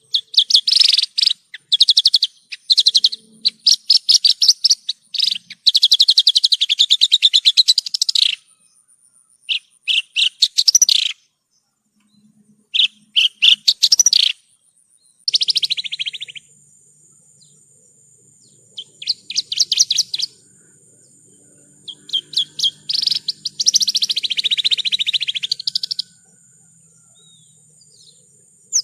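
Javan bush lark (branjangan) singing: bursts of rapid, buzzy trilled phrases with short pauses between them. A thin steady high tone runs behind the song from about halfway through.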